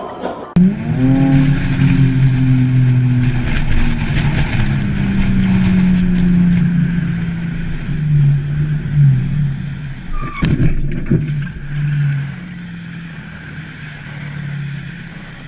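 Car engine running, starting suddenly with a rising pitch and then holding a steady note that shifts up and down. There is a single sharp knock about ten seconds in.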